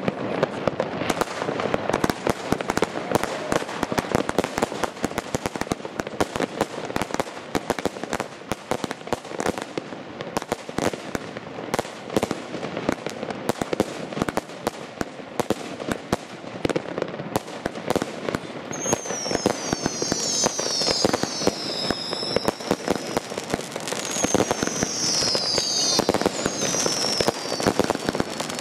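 New Year's Eve consumer fireworks (German Category II) going off in great numbers: a dense, continuous crackle of bangs and reports. From about two-thirds of the way in, several falling whistles from whistling fireworks sound over it.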